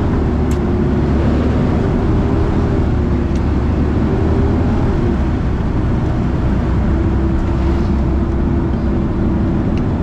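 A vehicle's engine and road noise while driving: a steady low rumble with an engine tone that wavers slightly in pitch.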